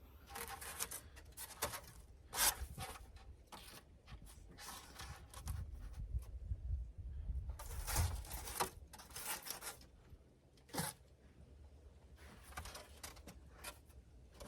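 Irregular scraping and tearing strokes from materials being handled and worked, with a sharp click about two and a half seconds in and another near eleven seconds.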